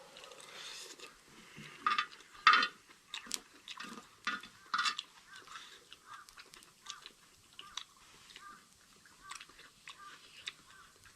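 Mouth eating sounds: irregular chewing and biting with small crunches and smacks, loudest in the first five seconds, then softer.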